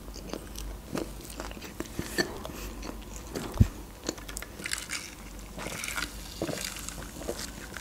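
Close-miked wet chewing and mouth clicks from someone eating soft bread, followed by quiet sipping through a drinking straw. A single low thump sounds a little past halfway.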